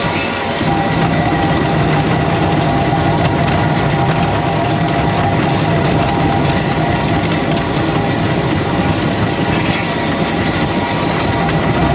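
John Deere 335P skid steer running steadily under load, its engine and hydraulics driving a power rake that churns through gravel.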